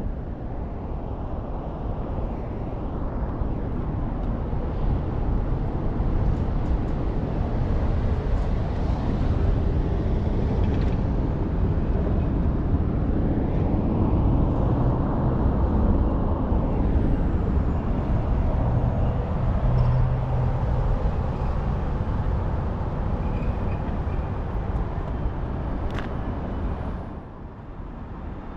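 Suzuki FAVAS23 boat's engine running. The sound grows louder over the first few seconds, holds steady, then drops off near the end.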